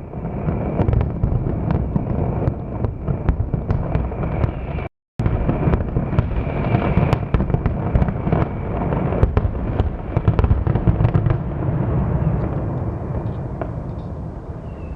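Fireworks display going off in a dense barrage: many sharp cracks and bangs over a continuous low rumble. There is a brief break in the sound about five seconds in, and the bursts thin out and fade over the last few seconds.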